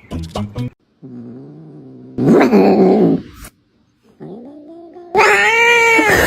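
Domestic cat caterwauling: a low drawn-out growl-like moan rises into a loud yowl, then after a short pause a long, loud wailing yowl that bends in pitch near the end.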